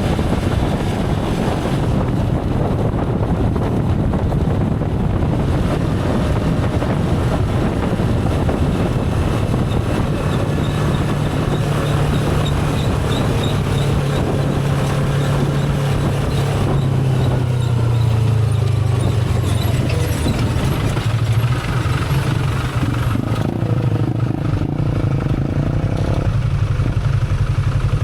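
Motorcycle engine running while riding on the road, with steady wind and road noise. The engine note firms up about a third of the way in, then dips and rises again as speed changes.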